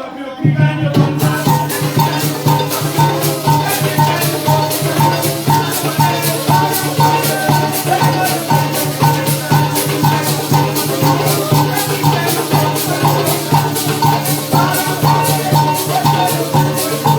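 A parang band playing: maracas shaking a fast, even beat over a steady bass and strummed chords.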